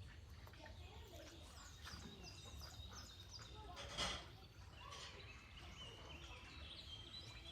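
Faint songbird song: quick runs of short high chirps stepping down in pitch, heard twice. A single sharp knock about four seconds in is the loudest sound, over a steady low rumble.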